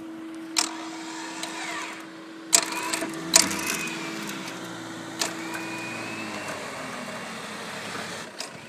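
A motor humming steadily, winding down in pitch and fading about six seconds in. Several loud sharp knocks and clanks come over it.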